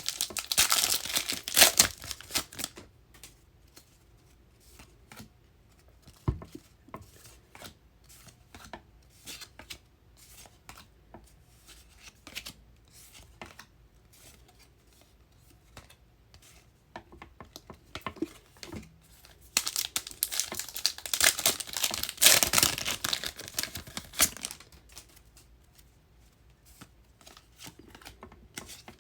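Trading-card pack wrappers torn open and crinkled, in two loud bursts: one at the start and another about twenty seconds in. Faint rustles and clicks of cards being handled come between.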